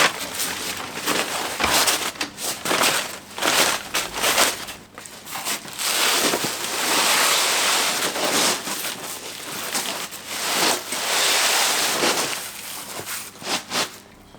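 Sheet of bitumen roofing felt being handled on a shed roof, with irregular crinkling, rustling and scraping. The longer stretches come about halfway through and again a little later.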